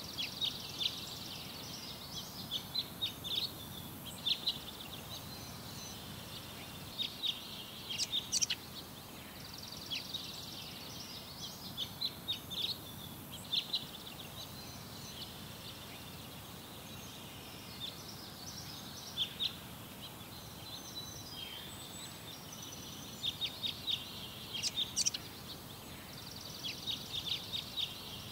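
Small birds chirping in short runs of quick, high chirps every few seconds, over a steady low hiss.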